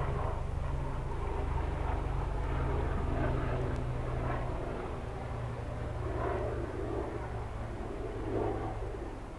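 A low, steady engine drone from a distant motor, fading near the end, with some soft rustling over it.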